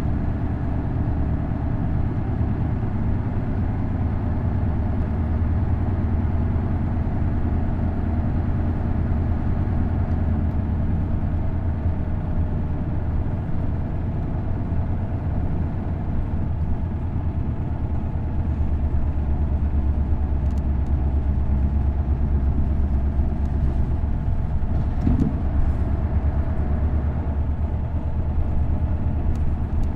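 Isuzu Erga bus's V8 diesel engine running with the bus under way, a steady low hum with tyre and road noise. It gets a little louder about halfway through.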